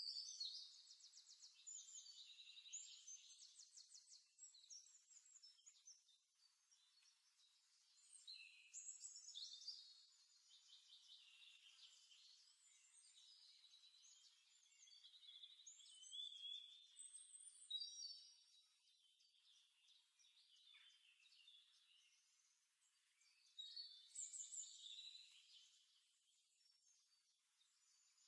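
Faint birdsong: phrases of rapid trills and chirping notes that come in bursts every several seconds.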